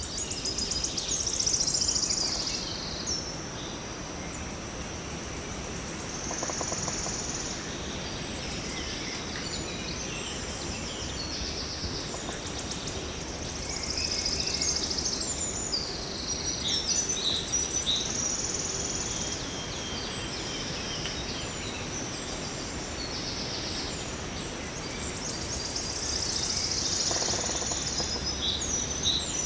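Daytime garden ambience: several birds chirping, trilling and whistling in short, overlapping phrases over a steady background hiss.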